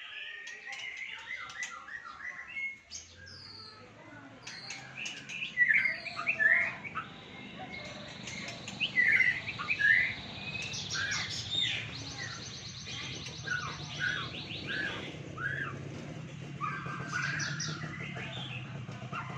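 Songbird chirping and twittering in many short, varied notes, with a fast trill about halfway through. A low steady hum runs underneath from a few seconds in.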